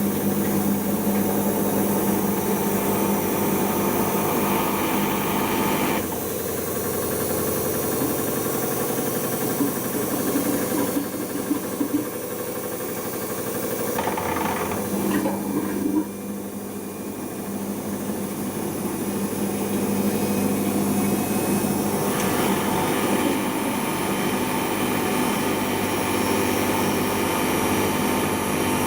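Siemens iQ washing machine running its intermediate spin after the wash: drum and motor running with a steady hum that drops out and comes back, the machine shifting stages as it drains and works up toward a 1000 rpm spin.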